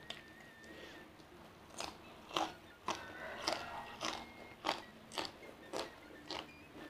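Crunchy chewing of raw green beans with rice, a crisp crunch a little under twice a second, starting about two seconds in.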